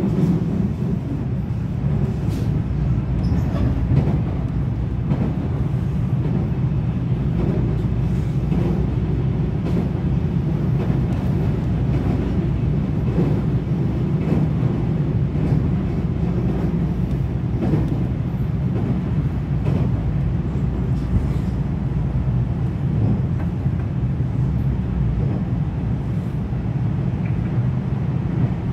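Running noise heard inside the passenger cabin of a JR West 227 series 0-subseries electric train's motor car, cruising at steady speed: a steady low rumble of wheels on rail, with faint clicks from the track.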